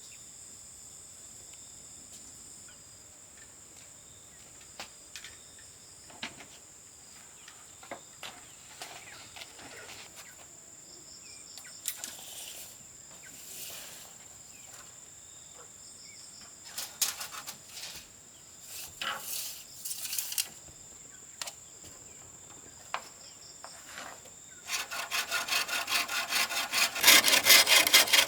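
A steady high insect drone with scattered light knocks and scrapes. About 25 seconds in, a hand saw starts cutting wood in quick, even strokes that grow louder near the end.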